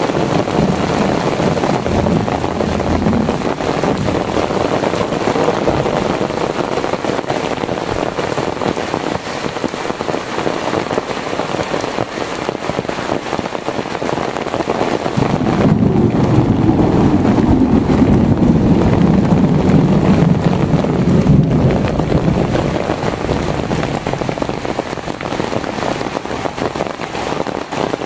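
Heavy rain falling steadily on pond water and the ground. A deeper rumble swells for several seconds just past the middle.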